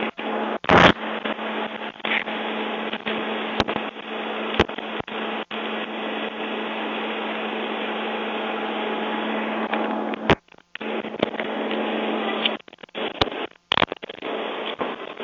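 A steady machine-like drone with a constant low hum, broken by a few sharp clicks and brief cut-outs about ten seconds in and near the end.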